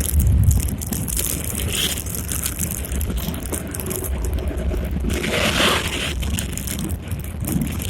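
Strong gusty wind rumbling on the microphone over street noise, with a louder swell of noise about five seconds in.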